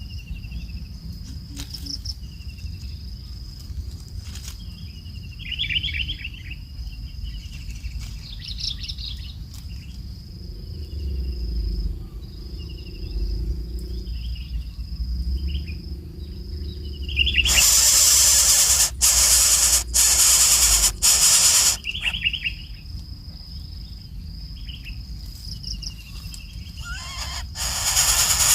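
Small birds chirping in short repeated calls over a steady high insect drone and a low rumble. Twice a loud hiss cuts in, about two-thirds of the way through for a few seconds with brief breaks, and again near the end.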